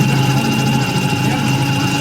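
A machine tool running steadily: an even hum with a constant high whine and no change in speed.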